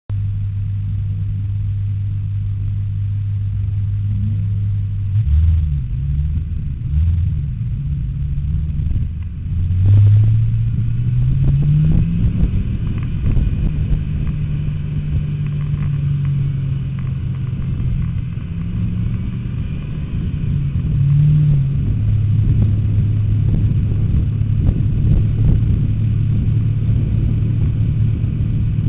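Ford Mustang GT's V8 engine idling steadily, then driving off at low speed: the engine note jumps and dips over a few seconds, rises as it pulls away about ten seconds in, settles, falls back near idle after twenty seconds and climbs again near the end.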